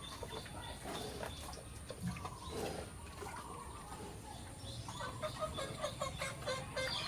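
Chickens clucking, with a quick run of short clucks near the end among scattered small knocks.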